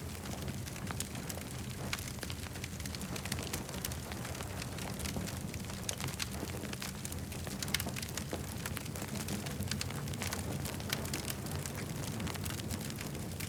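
Wood campfire burning with a steady low rumble and frequent sharp crackles and pops throughout.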